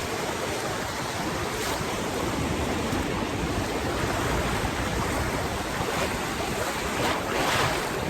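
Ocean surf washing steadily over shallow water, with wind rustling on the microphone; the wash swells a little near the end.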